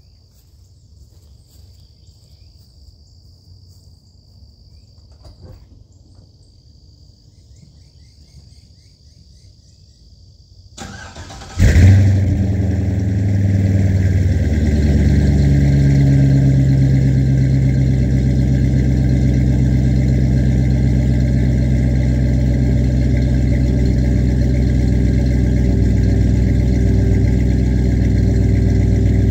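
Crickets chirping steadily. About eleven seconds in, a stock 5.3-litre LS V8 is cranked briefly and catches on a cold start with a loud flare, then settles into a steady idle through a 2.5-inch exhaust with junkyard Flowmaster mufflers.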